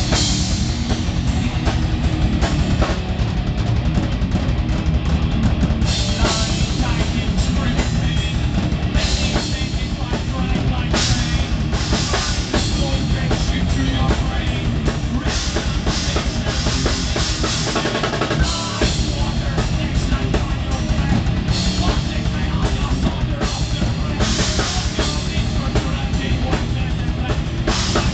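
Live heavy metal band playing, the drum kit loud and dense with bass drum throughout.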